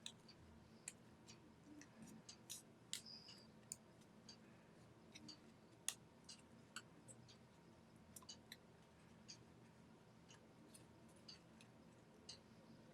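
Faint, irregular crackles and clicks of a sheet of origami paper being handled and creased by hand.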